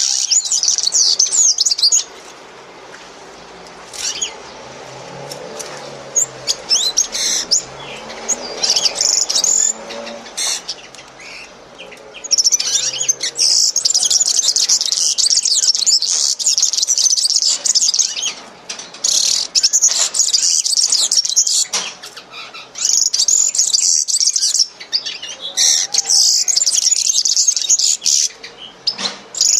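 Many small birds chirping at once in a dense, high-pitched twittering. It drops back to scattered calls for about ten seconds near the start, then returns in long stretches with short gaps.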